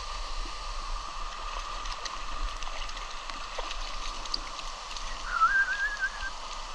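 Steady rush of a mountain stream and waterfall, with scattered faint clicks. About five seconds in, a short warbling whistle-like tone wavers for about a second.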